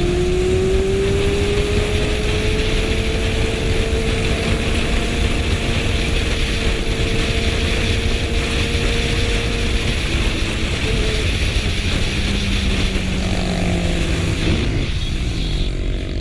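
Motorcycle under way at speed: a steady engine drone that climbs slowly in pitch for about ten seconds, then drops lower near the end, under heavy wind noise on the microphone.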